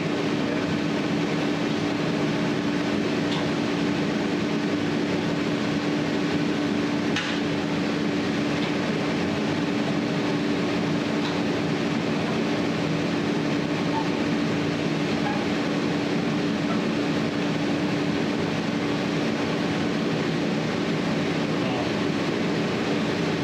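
A steady mechanical drone with a constant low hum, unchanging throughout, with a single light knock about seven seconds in.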